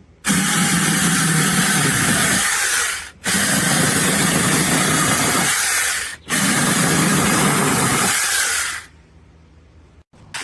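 Cordless brushless mini chainsaw running in three bursts of about three seconds each, trigger released briefly between them.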